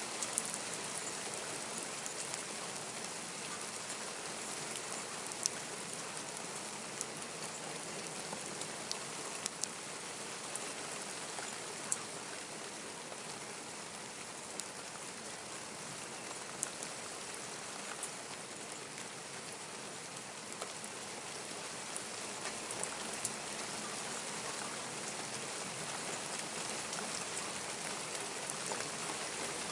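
Steady rain falling, an even hiss broken by scattered sharp clicks of drops landing close by.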